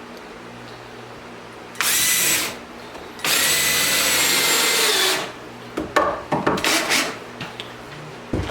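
Power drill running in two bursts, a short one and then a longer one of about two seconds whose whine drops as it stops, as it drives screws while the workbench is assembled. A run of sharp knocks and clatters follows.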